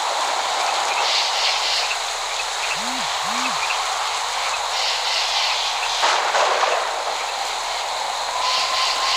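Steady rain hiss. About three seconds in come two short low hoots that rise and fall, there is a sudden louder rush about six seconds in, and a thin steady whistle starts near the end.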